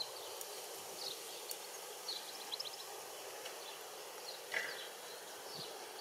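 Small birds chirping in the background: short high calls and a quick trill every second or so, the loudest about four and a half seconds in, over a steady outdoor hiss.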